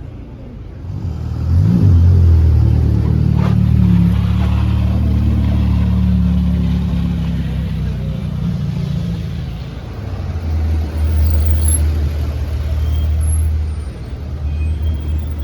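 A car's engine comes up loud about a second in with a quick rise in pitch, then runs with a steady low drone that eases and swells again toward the end.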